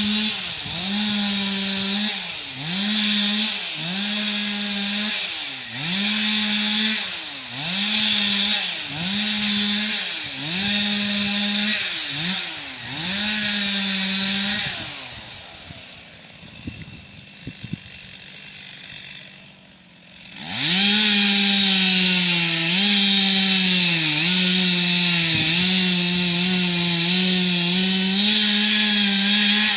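Two-stroke chainsaw making a run of short cuts, its engine pitch dropping and climbing back about every second and a half. It goes quiet for a few seconds with a few knocks, then about two-thirds of the way in comes back at high revs in a longer cut, sagging slightly now and then under load.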